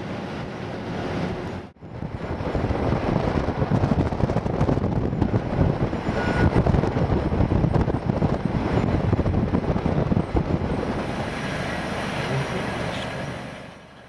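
Bucket wheel excavator and conveyor machinery running while digging and carrying coal: a dense, steady rumble and clatter. It breaks off briefly just before two seconds in, comes back louder, and fades near the end.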